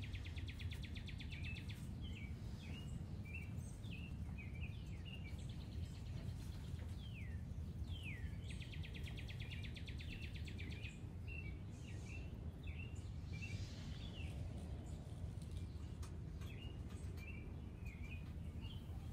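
A songbird singing the same phrase over and over: a falling whistle, then a fast buzzy trill lasting about two seconds, then a run of short chirps. Under it runs a steady low outdoor rumble.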